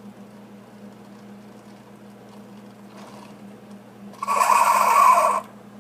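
Keurig coffee maker humming steadily as it brews, then about four seconds in a loud hissing sputter for just over a second, the burst of air that clears the last water through the pod at the end of the brew.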